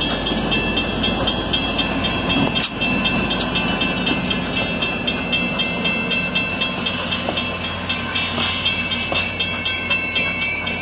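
A passenger train rolls past a grade crossing: a steady rumble of wheels on rail and trailing locomotive. Over it the crossing signal's bell rings in an even repeating pattern, with a single sharp knock from the train about three seconds in.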